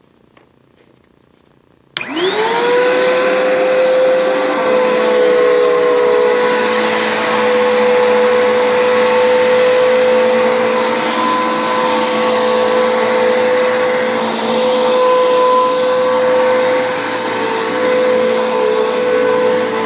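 Bissell PowerForce bagged upright vacuum switched on about two seconds in. Its 10-amp motor spins up with a quick rising whine, then runs steadily.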